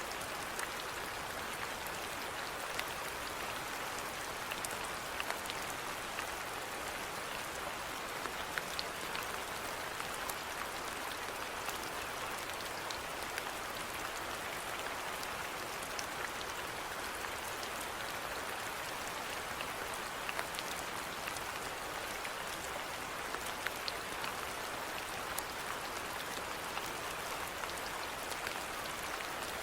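Steady rainfall, an even hiss with many small, sharp drop ticks scattered through it.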